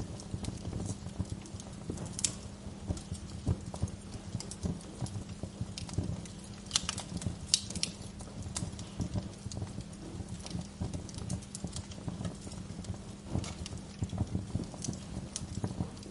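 Wood fire crackling in a fireplace: irregular pops and snaps, a few of them sharper and louder, over a low steady rumble.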